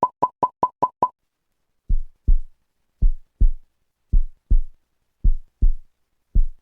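Electronic sound effect: six quick high beeps in the first second, then a low heartbeat thumping in double beats about once a second.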